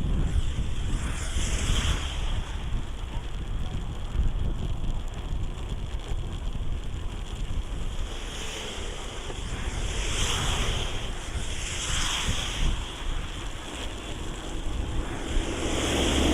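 Rain in gusty wind: a steady rushing hiss that swells up several times, with wind rumbling on the microphone.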